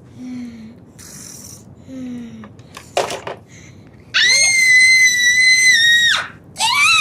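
A child's high-pitched scream held steady for about two seconds, followed by a shorter scream that rises and falls near the end.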